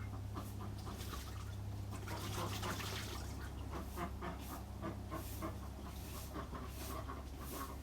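Dog panting rapidly in an even rhythm, about three to four breaths a second, over a steady low hum.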